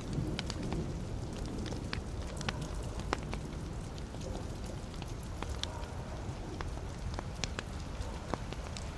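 Wood fire burning in a fireplace: a steady low rush of flames with irregular sharp crackles and pops from the logs, a few each second.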